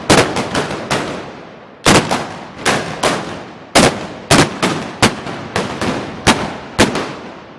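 A rapid, irregular string of about a dozen loud black-powder gunshots, each with a ringing echo, typical of blunderbuss volleys fired in a Moros y Cristianos mock battle.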